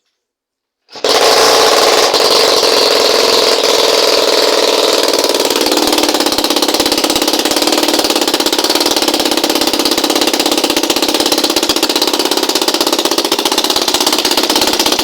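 Two-stroke engine built on a Stihl MS460 chainsaw case, running unmuffled on a motorized bicycle: it catches abruptly about a second in and runs loud, its pitch dropping a little after about five seconds and then holding steady.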